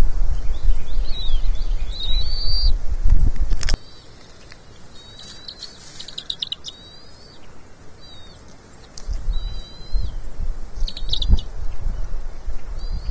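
Short, high bird chirps repeated at intervals throughout. A low wind rumble on the microphone fills the first few seconds, stops abruptly, and comes back for the last few seconds.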